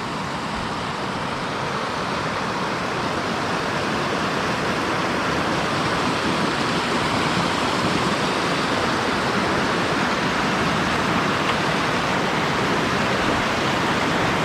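Waterfall on a river, a steady rush of falling water that grows a little louder over the first few seconds and then holds even.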